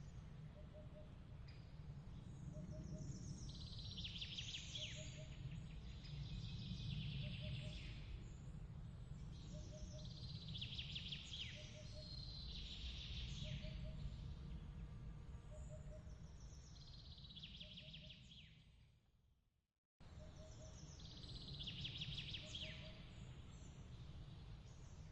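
Bird chirps in clusters every few seconds over a steady low rumble of outdoor noise, with a soft regular pip repeating beneath. The ambience fades out about twenty seconds in and cuts straight back in, a loop restarting.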